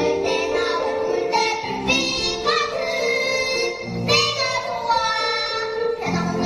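A child singing a Korean children's song with an instrumental accompaniment, the voice moving from note to note in phrases.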